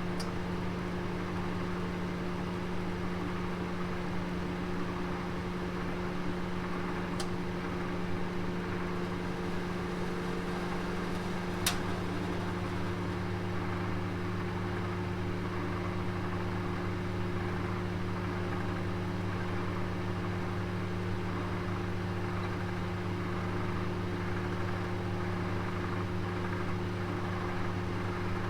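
Oven running with a roast inside: a steady hum. There is a faint click about seven seconds in and a sharper metallic click about twelve seconds in, after which the low hum grows stronger.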